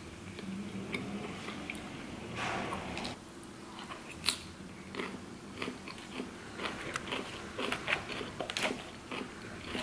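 Close-up crunching and chewing of a mixed green salad, with sharp clicks of a metal fork in the clear plastic salad bowl scattered through; the loudest crunch comes about four seconds in.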